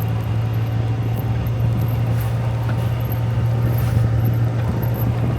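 Vehicle engine running steadily under way, a constant low drone with no change in pitch.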